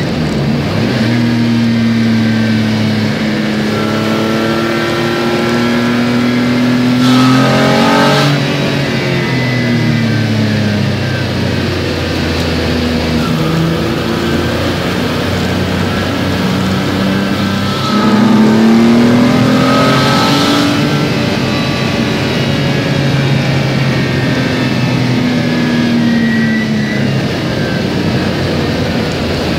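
Twin Peugeot ES9J4 3.0 V6 engines of a twin-engined Peugeot 205 race car, heard from inside the cabin, running hard on track. The revs sweep up and down with the gear changes, with a quick rise and drop about seven seconds in and a louder pull from about eighteen seconds in.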